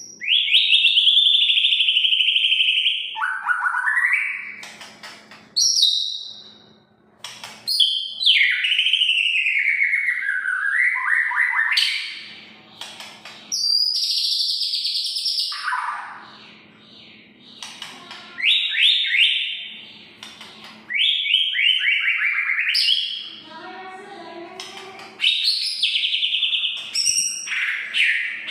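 White-rumped shama (murai batu) in full song, delivering a continuous run of varied phrases (clear sweeping whistles, fast rattling trills and mimicked calls) one after another with short pauses between them.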